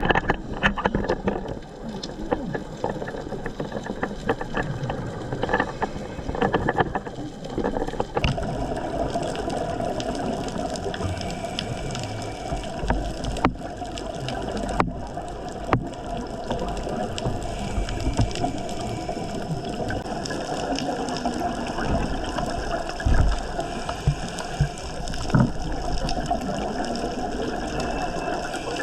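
Water noise with gurgling over a steady hum, the sound changing character about eight seconds in, with a few sharp clicks later on.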